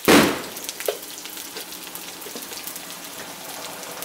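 Cubed potatoes frying in hot mustard oil in a kadai: a steady fine crackling sizzle. A short loud burst right at the start fades within about half a second, and a smaller one follows about a second in.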